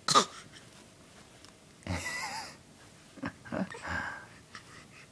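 Baby boy fake-coughing to get attention, with breathy, wheezy vocal noises: a sharp cough right at the start, a longer breathy sound about two seconds in, then a few short coughs.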